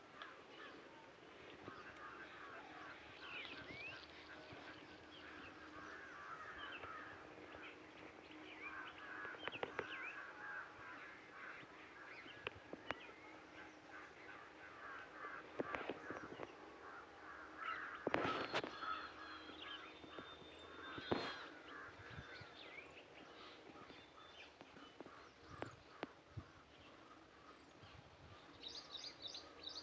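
Birds chirping and calling in many short notes, fairly quiet, with a few sharp knocks, the loudest two about two-thirds of the way through.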